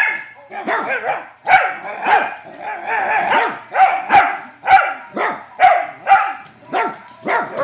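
Dachshund barking over and over, about two sharp barks a second.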